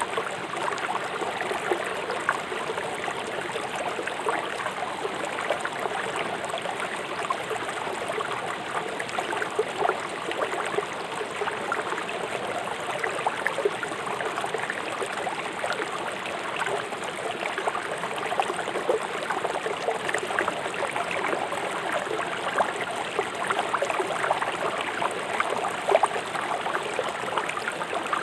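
Swift river water rushing over and around stones in its bed: a steady wash of flowing water with many small splashes.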